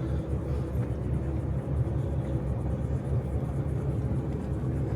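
A motorboat's engine running steadily while the boat is underway at low speed, a continuous low drone.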